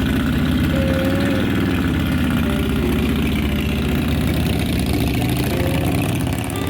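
Old Harley-Davidson V-twin motorcycle engine idling steadily.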